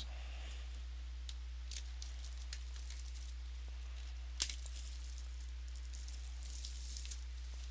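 Faint crinkling and light clicks of a trading-card box and its wrapping being handled and opened, over a steady low electrical hum. One sharper click comes about four and a half seconds in.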